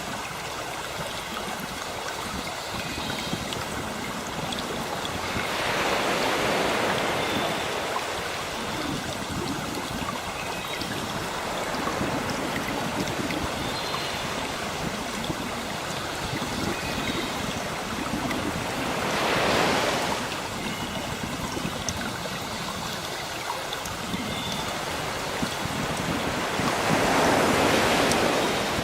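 Sea waves washing onto a shore: a steady rush of surf that swells four times as waves break.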